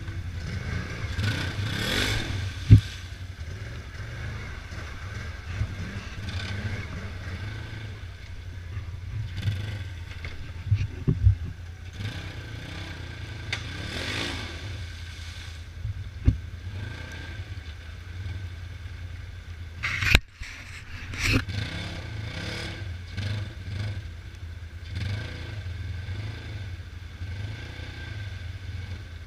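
Polaris RZR 900 side-by-side's twin-cylinder engine running steadily, with a few sharp knocks and clatters from the vehicle, loudest about twenty seconds in.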